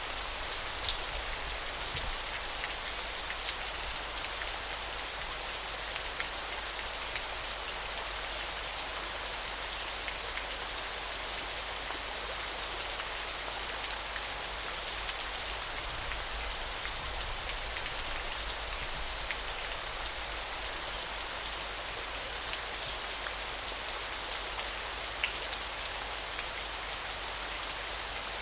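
Steady water noise: an even hiss with scattered small drop-like ticks. From about a third of the way in, a thin, very high trill comes and goes in repeated stretches of a second or two.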